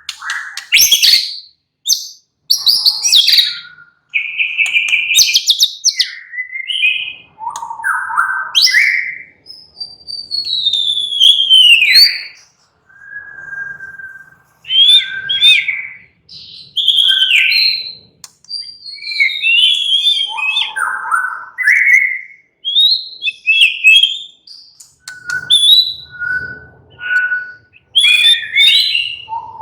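White-rumped shama (murai batu) singing: a varied run of loud whistled phrases, rising and falling glides and sharp chirps, broken by short pauses. Near the end comes a row of four short notes on the same pitch.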